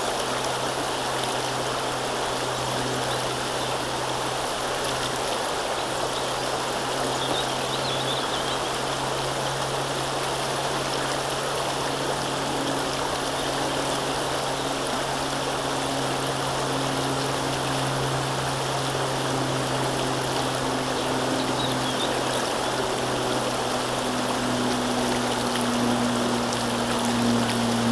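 River water rushing and trickling steadily. Under it runs a low, steady engine hum, which grows a little louder near the end.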